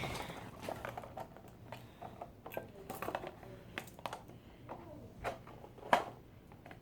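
Fingers picking and tugging at a taped firework package: scattered small clicks, taps and rustles, with one sharper knock about six seconds in.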